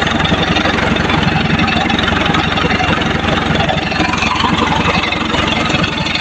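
An engine idling steadily, with an even, fast low pulsing that does not change.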